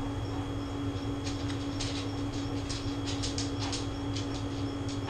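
A man chewing a mouthful of steak and onions, with a run of small mouth clicks through the middle, over the steady hum of a room air conditioner.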